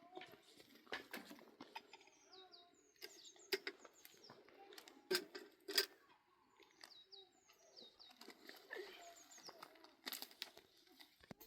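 A small bird singing short phrases of quick descending notes, repeated every second or two, with scattered sharp knocks and clicks in between. The loudest knocks fall about five to six seconds in.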